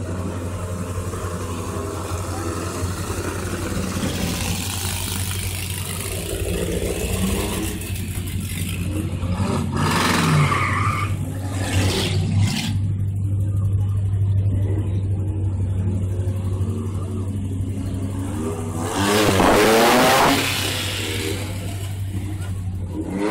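Race car engine idling with a steady low rumble. It is revved briefly about 10 seconds in and revved harder near the end, rising and falling once.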